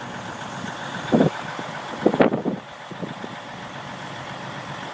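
Blizzard wind on a phone microphone: a steady hiss and hum with two brief buffeting gusts, about a second in and again around two seconds in.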